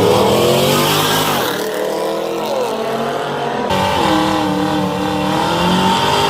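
Engines revving hard, their pitch climbing and dropping. There is an abrupt change about halfway through to a steadier, wavering engine note.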